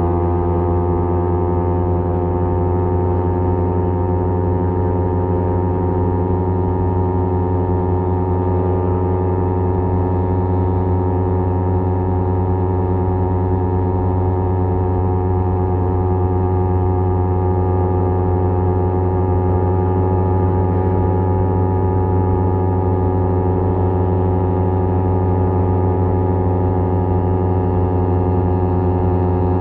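Kawasaki Z250 motorcycle engine through a SeaPro aftermarket muffler, cruising at a steady engine speed with an even, deep exhaust drone that barely changes pitch.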